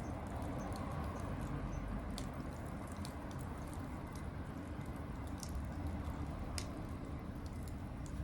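Wood bonfire burning: a steady low rush from the flames with irregular sharp crackles and pops from the burning wood.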